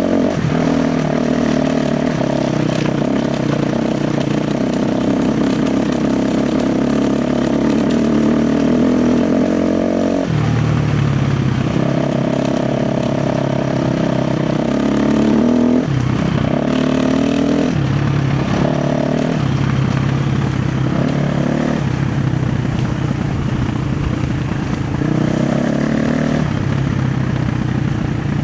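KTM 350 XC-F dirt bike's single-cylinder four-stroke engine running under constantly changing throttle. The engine note rises and drops every few seconds as the throttle is opened and rolled off.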